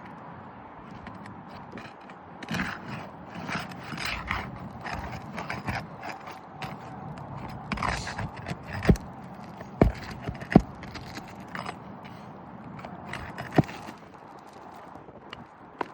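Scraping and rustling of hands and tools working on asphalt roof shingles, then four sharp knocks: three about a second apart around the middle and a last one a few seconds later.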